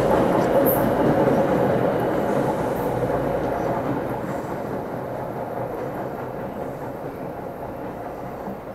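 A train's wheels running on the rails, the sound fading steadily as the train moves away.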